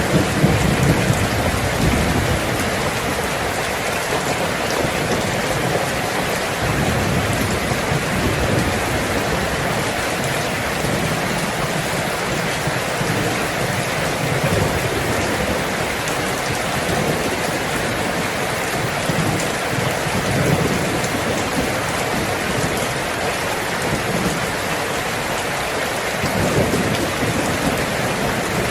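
Heavy rain falling on a tin roof in a steady, loud hiss, with low thunder rumbling beneath it. The thunder swells near the start and again near the end.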